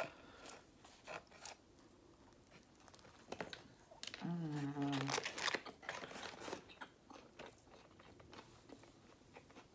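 Close-up eating sounds: biting into and chewing a KFC Zinger crispy fried chicken burger, with scattered crunches of the breaded coating. A short hummed "mm" comes about four seconds in, followed by denser crunchy chewing.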